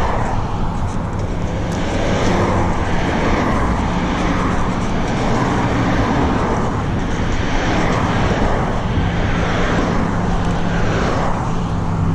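Loud, steady road traffic noise, with cars swelling past one after another every couple of seconds.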